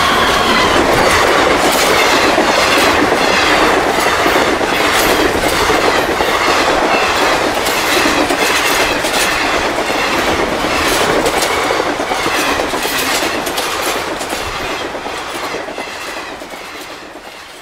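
Passenger train hauled by a WAP-4 electric locomotive passing at speed close by: a loud steady rush with wheels clattering over the rail joints in a regular rhythm of clicks. The tail of a horn note dies away in the first second, and the noise fades over the last few seconds as the train goes by.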